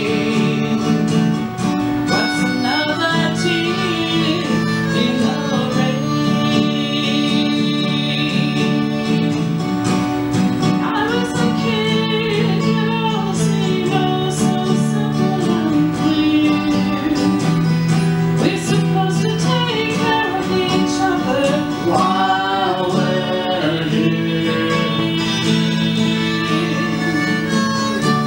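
Live acoustic music from a duo playing a country-style song on string instruments, continuous and steady in level.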